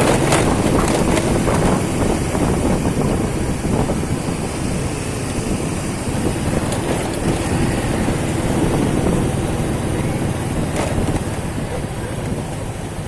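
Motorcycle riding: the engine runs steadily under a loud rush of wind on the microphone.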